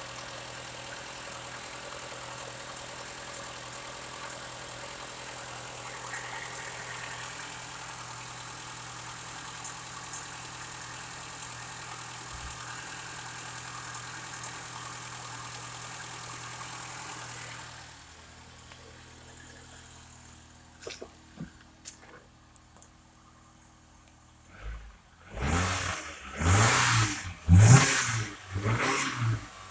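2008 Mitsubishi Outlander's 2.4-litre four-cylinder MIVEC petrol engine idling steadily. From about eighteen seconds in it is heard more quietly from inside the cabin, and near the end it is revved up to nearly 4,000 rpm in several quick bursts.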